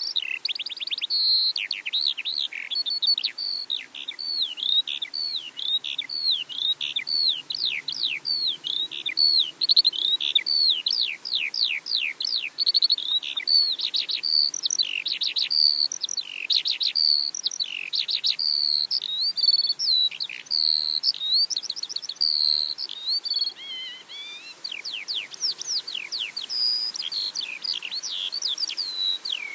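Songbird song: an unbroken stream of quick, high chirps and sweeping whistles, with one longer falling whistle a little before the end.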